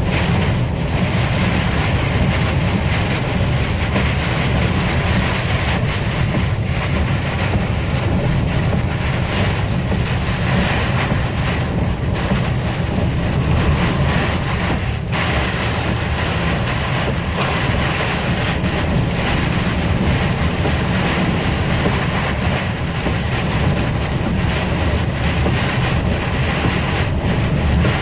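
Steady low rumble with hiss from vehicle road noise and wind, heard during a storm on an expressway.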